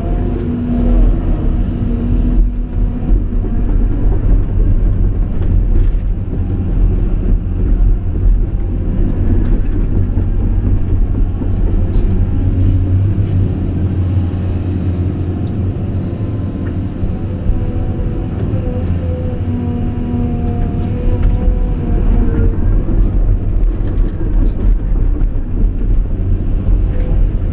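Cat 349E hydraulic excavator running: a steady low diesel engine rumble, with a hydraulic whine that drifts in pitch as the hydraulics work.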